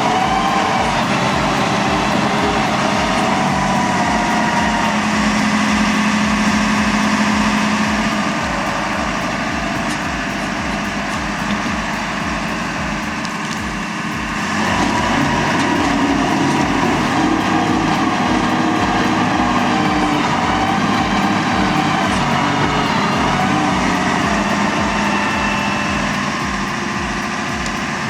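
Heavy machinery engine running steadily under load, with a drop in level and a change in its pitch pattern about halfway through.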